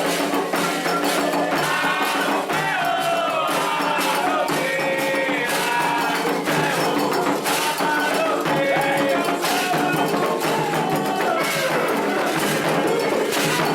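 Candomblé sacred music: atabaque hand drums and percussion keep up a steady, driving rhythm under voices singing a chant to the orixás.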